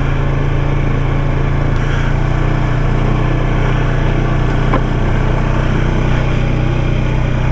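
Off-road vehicle engine running steadily under way, a constant low drone with little change in speed.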